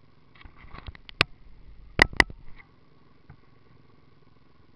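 A few sharp clicks and knocks with some rattling, over a faint steady hum; the loudest are two sharp knocks close together about two seconds in.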